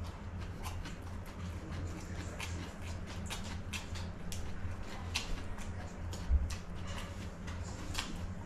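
A person chewing crisp lettuce close to the microphone: a string of small, irregular crunches and mouth clicks over a steady low hum.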